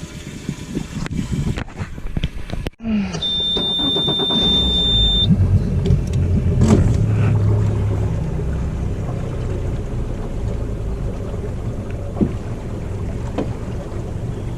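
Outboard boat motor running steadily at low speed, coming in about four seconds in. Just before it, a single high steady beep sounds for about two seconds.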